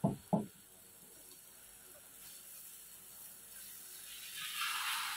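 Two brief low sounds at the start, then faint sizzling from an egg-topped paratha frying in oil on a tawa. The sizzle swells to a louder hiss about four seconds in, as the paratha is turned with a spatula and its raw egg side meets the hot pan.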